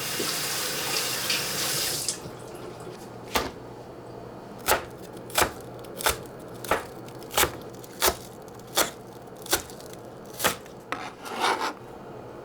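Kitchen tap running for about two seconds and then shut off, followed by about ten sharp, evenly spaced knocks, roughly one every 0.7 seconds, and a short rustle near the end.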